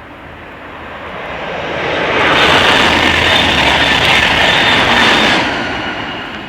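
A train passing by: its rushing noise swells up, holds at full strength for about three seconds and fades away near the end.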